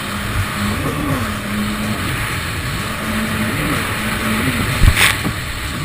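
Stand-up jet ski engine running steadily, its pitch rising and dipping briefly a few times as the throttle changes, over rushing water and wind noise. A sharp slap about five seconds in.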